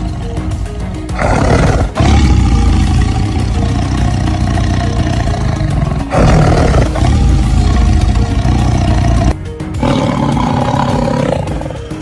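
Tiger roaring: a series of long roars a few seconds each, the loudest sound, over background music with a steady pulsing beat.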